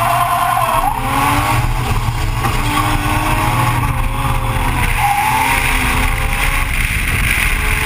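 Nissan S13's RB30DET turbocharged straight-six engine working hard on a drift run, its revs rising and falling as the throttle is worked, with a brief drop in pitch about a second in.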